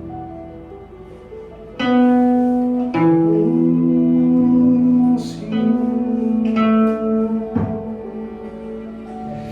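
A plucked string instrument plays a slow melody of single notes that ring on. It starts quietly and grows louder a couple of seconds in, and one note slides upward in pitch.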